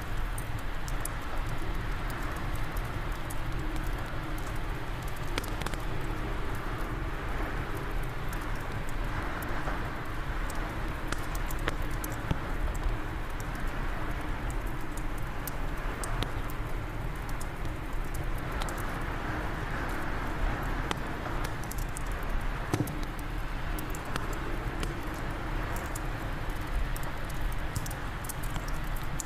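Fireplace fire crackling, with many small sharp pops scattered throughout, over a steady rushing wind that swells now and then.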